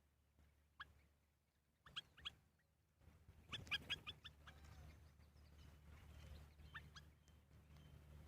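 Faint short chirps of small birds: a few scattered single calls, with a quick run of about five a little past three seconds in. A low steady hum comes in about three seconds in.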